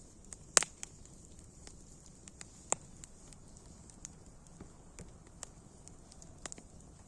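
Wood fire crackling, with scattered irregular pops over a faint hiss; one sharp pop about half a second in and another near three seconds in stand out.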